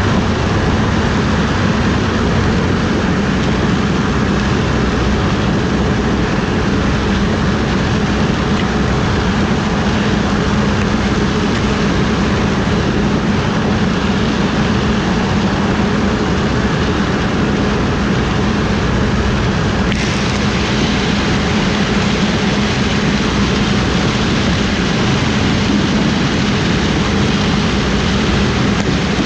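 Diesel-powered harvest machinery running steadily under load, a loud unbroken engine hum with a strong low drone. Its higher-pitched noise gets a little louder about twenty seconds in.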